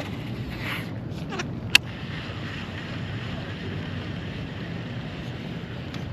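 Steady low rumble of wind on the microphone and water around a kayak, with one sharp click a little under two seconds in.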